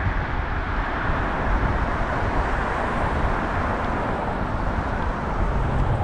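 Steady street traffic noise and a low rumble of wind on the microphone, heard from a moving bicycle.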